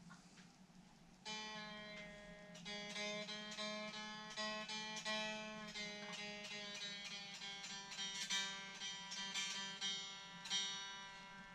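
The newly assembled Effonia Stellar guitar being played in its first sound check. Picked single notes and arpeggiated chords start about a second in and run on continuously over a steady low hum.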